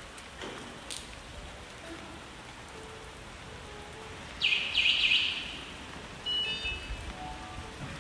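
Steady rain falling, with two loud, short, harsh bursts about halfway through.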